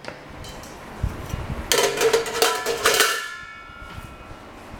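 Metal parts of a folding fire pit being handled: a dull knock, then several metallic clanks with a ringing tone that fades out.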